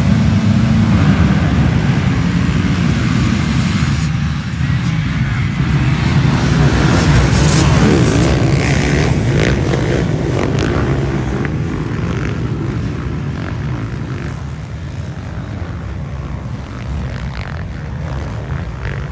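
Engines of a pack of motocross motorcycles racing, a dense low drone that slowly fades as the bikes move away.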